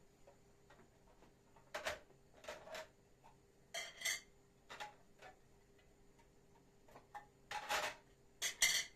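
Dishes and cutlery clinking and knocking as they are handled, in a series of short, irregular bursts with the loudest clinks near the end.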